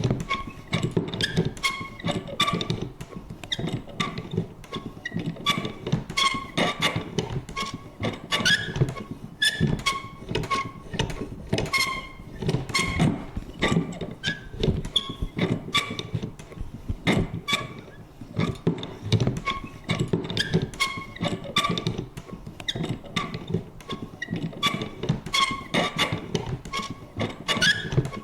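Vintage paper punch worked over and over: a quick, irregular run of sharp clicks, each with a short high creak or squeak.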